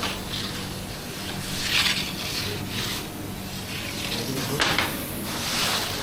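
Kitchen work sounds: repeated rubbing and scraping over a steady low hum, with one sharp knock about two-thirds of the way through.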